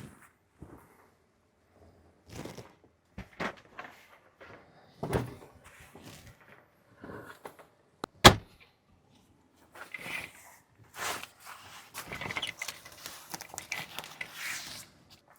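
Scattered handling noises: soft knocks and rustling as things are moved and put away, with one sharp click about eight seconds in and a longer spell of rustling near the end.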